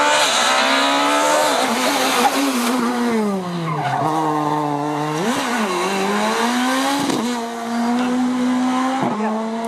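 Rally car engine at high revs. The revs fall over the first few seconds, then come three sharp blips about two seconds apart, near five, seven and nine seconds in.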